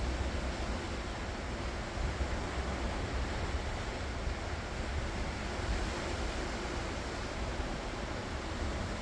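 Ocean waves washing onto the shore in a steady, continuous rush, with a low rumble under it that may be partly wind on the microphone.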